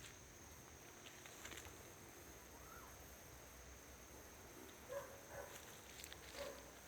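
Faint outdoor ambience: a steady high-pitched insect drone, with a few faint short calls and small clicks about five to six and a half seconds in.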